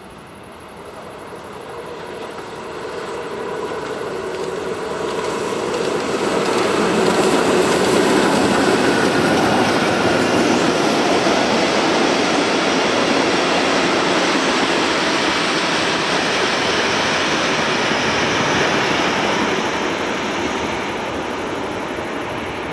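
A train approaching and passing through: the rush of wheels on rail builds over about seven seconds, holds steady for some ten seconds, then begins to fade near the end.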